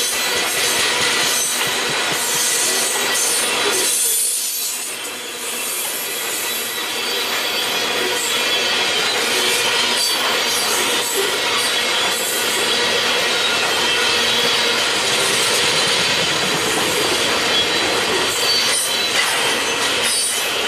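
Freight train of tank cars rolling past, steel wheels on rail: a steady rushing noise with a high hiss. It dips briefly about four seconds in.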